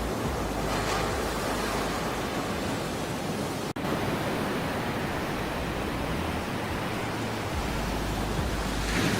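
Ocean waves washing in, a steady rushing wash that swells a little near the end. The sound briefly cuts out for a split second a little under four seconds in.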